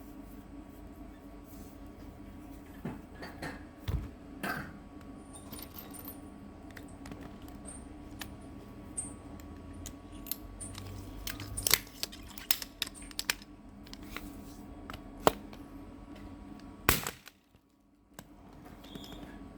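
Scattered sharp clicks and metallic clinks over a steady low hum, with a few louder sharp knocks, and the hum briefly dropping away just after the last loud one.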